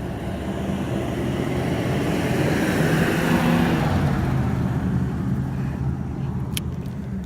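A motor vehicle driving past: engine and tyre noise build to their loudest about three seconds in, then fade as the engine note drops in pitch.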